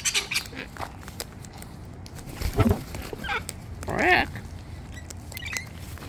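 A bird at the seed gives one short pitched call that rises and falls, about four seconds in, with a fainter shorter call just before it. A dull thump comes a little before the middle.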